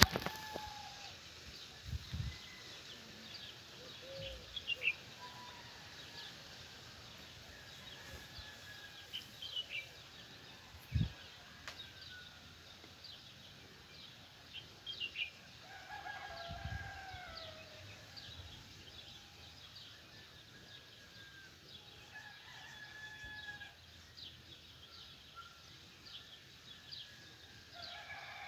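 A rooster crowing at a distance, one long call about sixteen seconds in and another starting near the end, while small birds chirp and twitter throughout. A single sharp knock about eleven seconds in.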